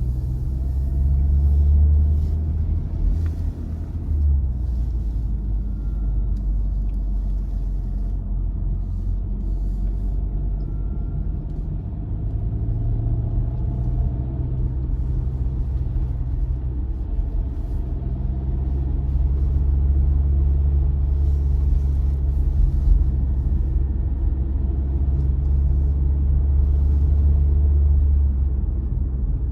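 A car driving: a steady low rumble of engine and road noise, its hum shifting in pitch a few times.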